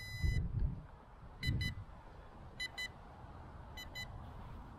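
Low-battery warning of the SMRC ICAT1 Pro drone: short, high double beeps repeating about every second and a quarter, with a longer beep at the start, because the battery is nearly flat. Two dull low thumps come right at the start and about a second and a half in.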